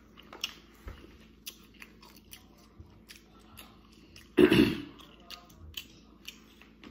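Close-up chewing and mouth sounds of someone eating seafood-boil food, with scattered small clicks and crinkles as fingers pick through a plastic bag. A brief loud sound comes about four and a half seconds in.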